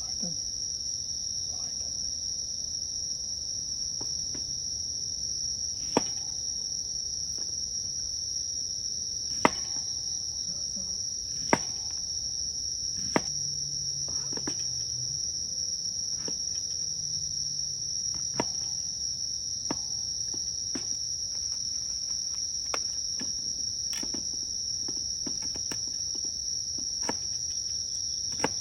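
Crickets and other insects trilling steadily in a high, unbroken chorus, with sharp clicks and knocks now and then, about a dozen, irregularly spaced.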